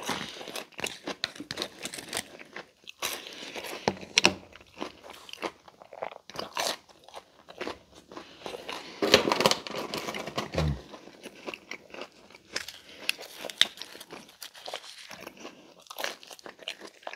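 Close-miked chewing and biting of cooled breaded mozzarella sticks: irregular wet mouth clicks and crunches, loudest about nine to ten seconds in.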